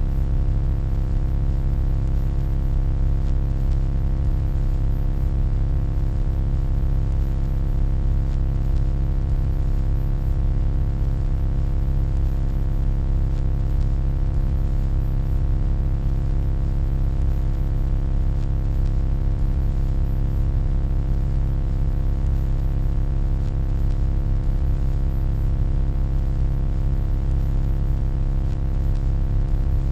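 Steady electronic hum: a deep, unchanging drone with a stack of steady higher tones over faint hiss.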